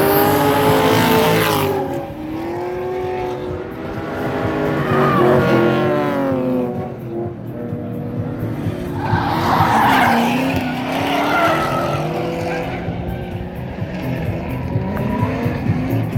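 Drift cars at full throttle, engines revving up and down as they slide through the course, with tyres squealing; the broadest burst of tyre noise comes about nine to eleven seconds in.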